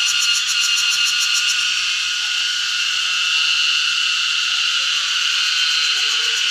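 Cicadas singing in a loud, steady chorus. A second, rapidly pulsing high buzz runs over it and stops about one and a half seconds in.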